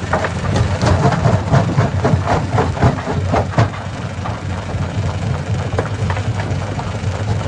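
Stone-crushing hammer machine running steadily with a low engine hum, with a quick run of sharp knocks of stone during the first half, then running on more evenly.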